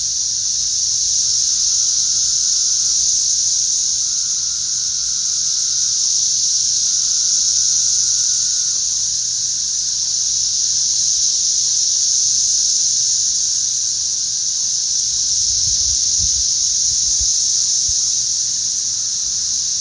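Dense chorus of cicadas: a loud, steady, high-pitched drone that slowly swells and eases. The filmer takes them for periodical 13- and 17-year cicadas.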